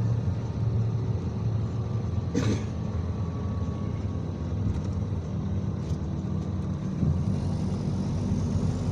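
IVECO Crossway 13M PRO city bus engine running steadily, heard from inside the cabin on the move, with one brief sharp sound about two and a half seconds in.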